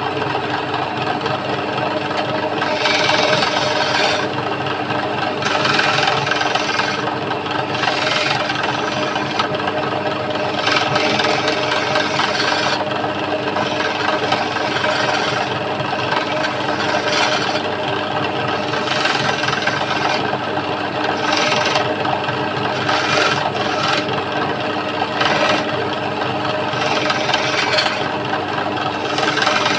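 Wood lathe running with a steady motor hum while a turning chisel cuts a spinning wooden stool leg, the scraping coming in repeated passes of a second or two.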